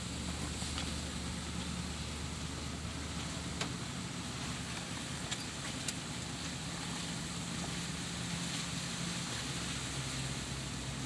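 Vehicle engine running steadily as it drives, with a few sharp clicks here and there.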